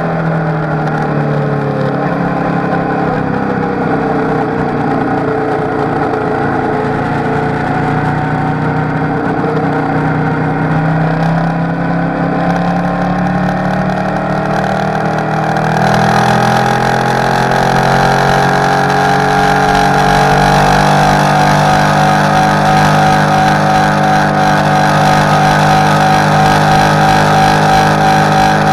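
Sport motorcycle engine running hard at track speed, its note rising and falling with the throttle. About halfway through it gets louder and climbs in pitch as the bike accelerates onto a straight.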